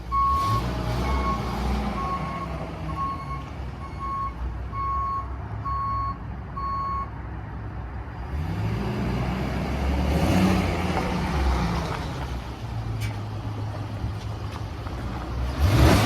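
Ford F550's 6.8L V10 engine running while a reversing alarm beeps about once a second; the beeping stops about seven seconds in. The engine then revs up and settles back, and a louder rush of noise comes in right at the end.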